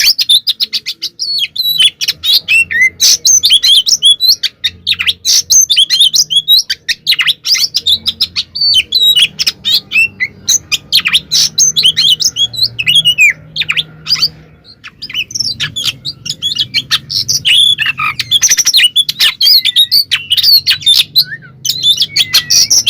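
White-rumped shama (kacer) singing a fast, loud song of rapid chirps, sweeping whistles and harsh notes with hardly a pause. It is the full-voiced fighting song that keepers play to rile other shamas.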